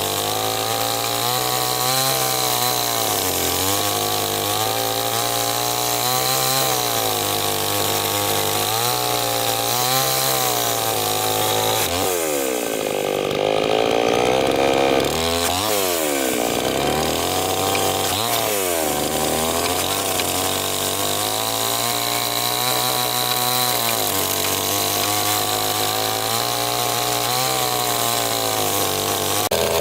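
Chainsaw engine running under changing load, its pitch rising and falling as it cuts. It revs up and down sharply several times about halfway through.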